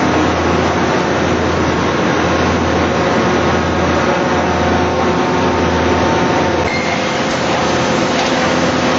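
Raptor tire chipper with hook shear knives running loud and steady as it grinds heavy truck tires: a dense mechanical din over a low hum that changes about seven seconds in.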